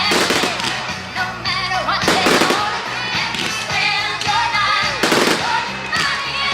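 Fireworks bursting and crackling over music, in three clusters of bangs: at the start, about two seconds in, and about five seconds in.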